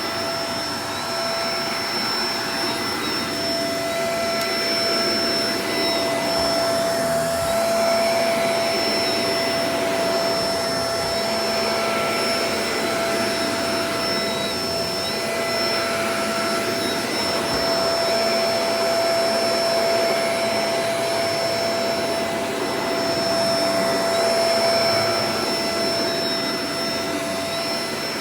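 Shark Professional Powered Lift-Away DLX (NV586) upright vacuum cleaner running steadily, its motor giving a constant high whine over a rush of airflow, the loudness swelling and easing slightly now and then.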